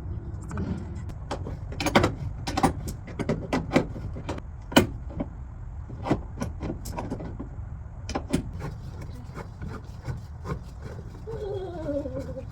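Irregular knocks and clattering from demolition work tearing out a camper's interior, over a steady low rumble.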